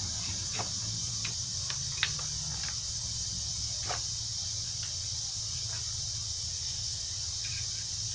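Scattered light clicks and scrapes of a metal brake clip being worked by hand into place on a brake caliper, over a steady low hum and high hiss.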